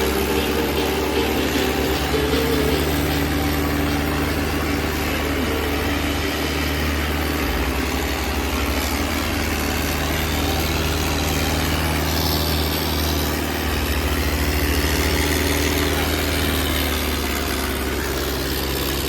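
Diesel tractor engines running steadily, pulling against each other in a tug of war.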